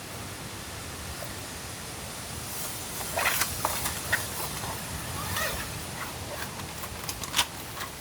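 Steady hiss of rain in the forest, with a run of irregular clicks and rustles of camping gear being handled from about three seconds in, and a few sharper clicks near the end.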